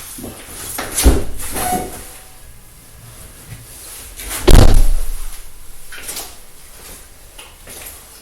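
Two knocks about three and a half seconds apart, the second the louder with a short ring after it, among smaller handling clatter.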